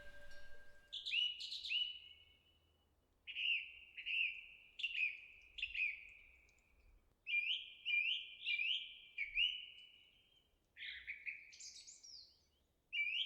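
A songbird singing in four phrases of short, repeated whistled notes, each note dropping in pitch, with pauses between the phrases. A wind chime's ringing dies away in the first second.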